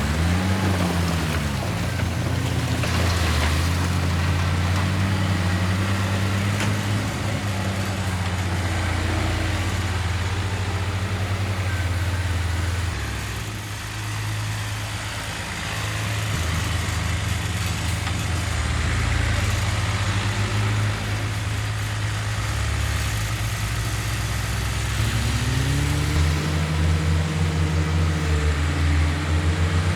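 Heavy diesel engine of earthmoving machinery running under load, its pitch rising and falling with the throttle. It eases off and quietens a little around the middle, then revs up again in the last few seconds.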